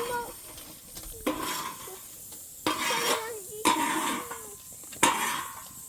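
A metal utensil scraping and stirring in a metal pot, in four short strokes about a second apart.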